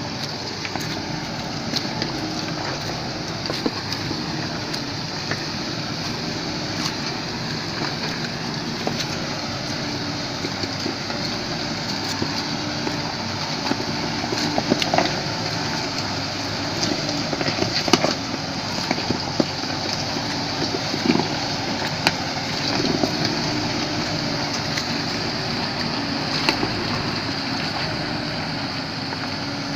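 A vehicle driving down a mountain road in rain: a steady engine hum under road, wind and wet-surface noise, with scattered sharp clicks throughout.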